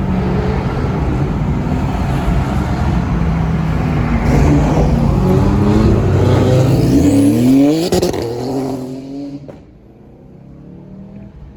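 A car's engine running loud, then revving hard with a quick rising pitch about seven seconds in as the car accelerates away, its sound dying off quickly after that.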